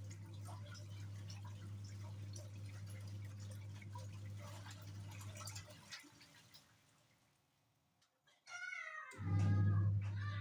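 A steady low hum with light clicks and splashes of water fades out about six seconds in. Near the end a cat meows, a falling cry, as the hum comes back louder.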